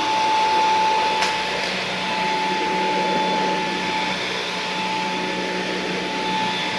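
Samsung VS20T7532T1 cordless stick vacuum running on its medium power setting: a steady rush of suction with a high whine on top that eases a little about four seconds in.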